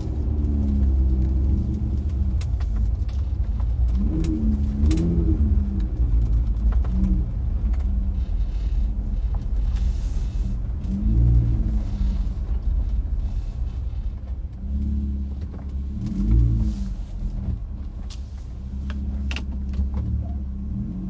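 Low road and engine rumble inside a moving truck's cab, the engine note rising and falling now and then, with a few light clicks.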